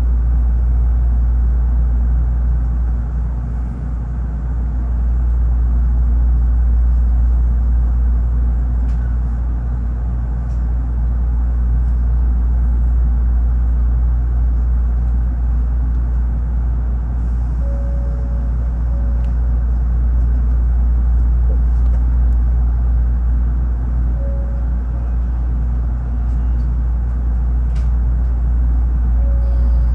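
Steady low rumble of a Tokaido Shinkansen train running, heard from inside the passenger cabin, with a few faint short tones and ticks over it.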